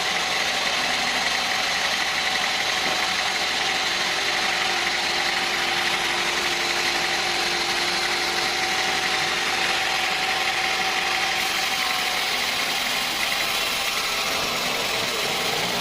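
Sawmill machinery running steadily with a constant whine and hiss, pitch and level unchanging.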